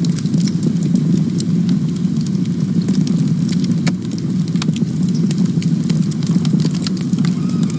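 Campfire burning: a steady low rumble from the flames with frequent sharp crackles and pops from the burning wood.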